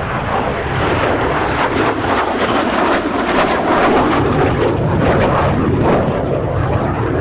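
Jet noise from a Lim-5, the Polish-built MiG-17F, its Klimov VK-1F afterburning turbojet running loud on a display pass. The noise swells over the first second and then holds steady, with a crackling edge.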